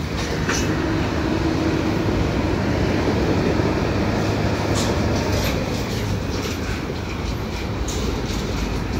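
Freight cars of a slow-moving mixed freight train rolling past: a steady rumble of wheels on rail, with a few scattered clicks.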